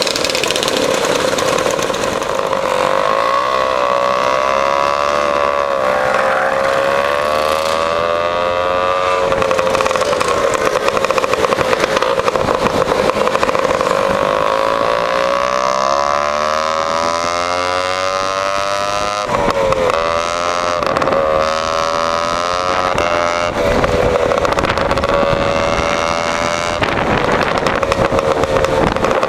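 Lambretta scooter's two-stroke engine running through an AF reverse cone exhaust on the move. The pitch rises and falls over several seconds at a time as it accelerates and eases off, with a couple of sudden drops and pick-ups that sound like gear changes or throttle lifts.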